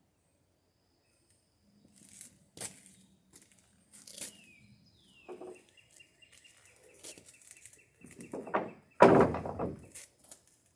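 Wooden boards being shifted and knocked against each other while digging through a lumber pile: scattered knocks, then a louder clatter about nine seconds in. A bird trills in the background.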